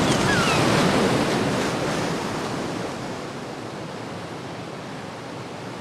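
A loud rush of noise like surf, fading steadily over several seconds, with a few short falling chirps in the first second.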